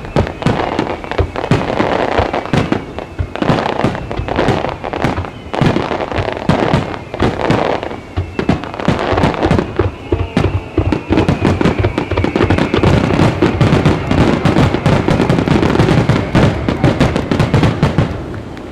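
Aerial fireworks bursting one after another, with sharp bangs and crackling. About halfway through they thicken into a dense, louder barrage, which cuts off shortly before the end.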